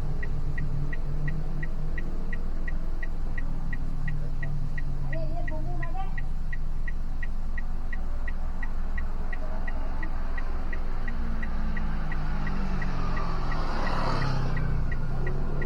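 A motor vehicle running along the road with a steady low engine hum. An even high-pitched tick comes about three times a second, and a brief rush of noise passes near the end.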